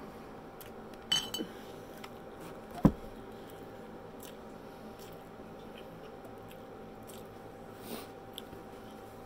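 Close-up chewing and mouth sounds of someone eating a pulled-pork barbecue sandwich, over a faint steady hum. A sharp ringing clink comes about a second in, and a louder single knock about three seconds in.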